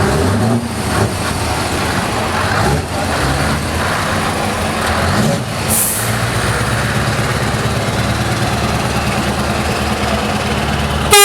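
Heavy trucks' diesel engines running as they pull away, with a short sharp air-brake hiss about six seconds in. A loud air horn blast starts right at the end.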